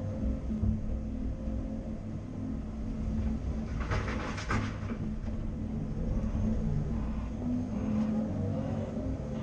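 CAT 330 Next Generation excavator's diesel engine running steadily under load while it works. A brief harsh clatter comes about four seconds in.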